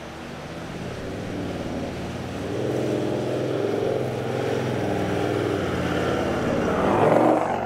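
A 4WD's engine running under load, growing louder and peaking about seven seconds in, then falling away quickly.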